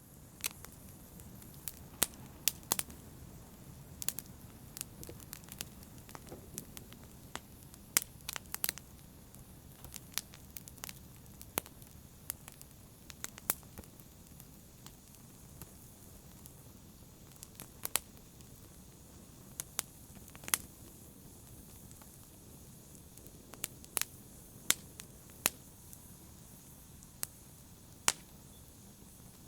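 Wood fire in a fireplace crackling, with irregular sharp pops and snaps over a soft, steady low rush of burning.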